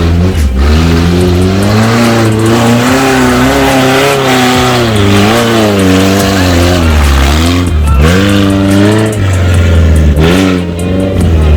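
Off-road competition 4x4's engine revving hard, the revs swinging up and down repeatedly, with short drops about two-thirds of the way through and again near the end.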